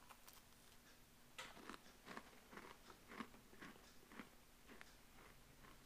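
A person chewing a crisp, dry sweet biscuit with raisins: faint, short crunches about twice a second, starting about a second and a half in.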